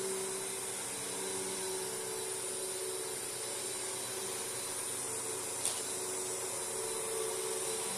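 Royal Pro Series Multi Floor upright vacuum running steadily with its brush roll on, pulling strong suction through a fresh bag, with a short click a little past halfway.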